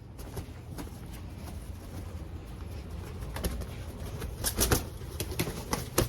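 A pet hen making low clucking sounds, then a busy flurry of splashing and wing flaps in the last couple of seconds as she jumps into her water.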